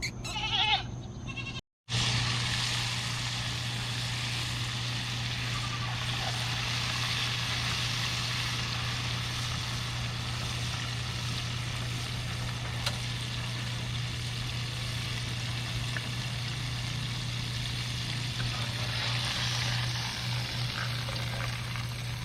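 A goat bleats briefly at the start. After a sudden break, fish frying in hot beef tallow sizzle steadily over a constant low hum.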